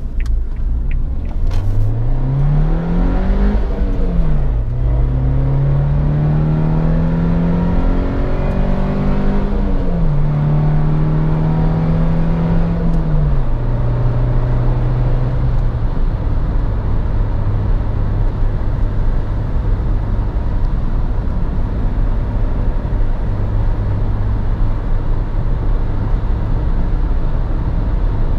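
Suzuki Jimny's 1.5-litre four-cylinder petrol engine accelerating hard, heard from inside the car: the engine note climbs steeply, drops at an upshift about four seconds in, and climbs and drops again through further gear changes. From about halfway it holds one steady pitch at cruising revs under steady road and wind noise.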